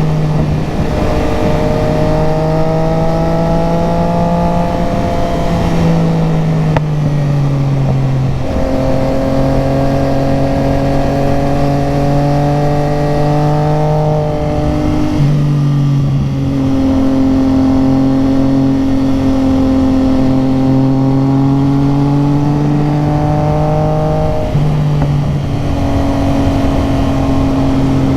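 Motorcycle engine running under way, its note holding or gliding slowly and changing pitch abruptly several times, about every few seconds.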